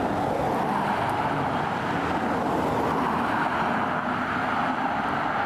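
Steady road-vehicle noise, an even rush of engines and tyres with no siren sounding.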